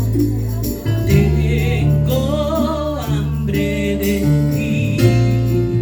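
Live praise-and-worship band music: held low chords under sharp percussion hits, with a singer holding a wavering note from about two seconds in to about three and a half seconds.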